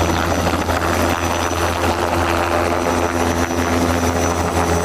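Helicopter sound: a steady, unbroken drone of rotor and engine.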